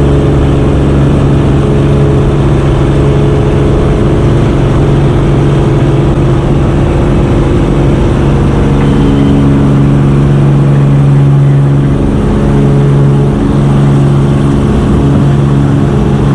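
Cessna 210K's six-cylinder piston engine and propeller at full takeoff power, a loud steady drone as the aircraft accelerates down the runway and climbs out.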